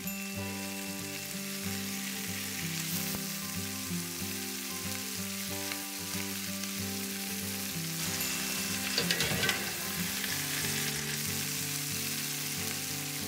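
Stuffed chicken breasts sizzling as they brown in a stainless steel skillet, with a steady frying hiss. Metal tongs clink against the pan a few times about nine seconds in as the pieces are turned.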